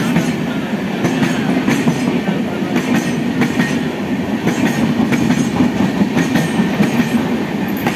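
Indian Railways passenger coaches rolling past alongside the platform: a continuous rumble, with the wheels clicking irregularly over the rail joints as one coach after another goes by.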